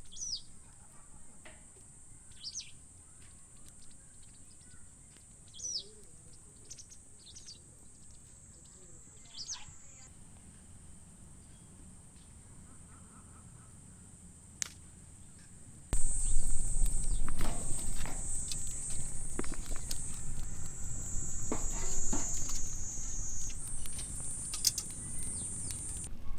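Outdoor nature ambience: a steady high-pitched drone with short, quick, falling bird calls over it in the first ten seconds. After a cut about sixteen seconds in it turns louder, with frequent clicks and a low rumble.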